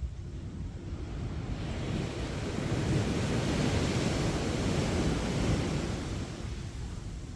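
Sea waves breaking and washing up a sandy beach: a wave's surge swells over the first couple of seconds, peaks in the middle and eases off near the end, over a steady low rumble of surf and some wind on the microphone.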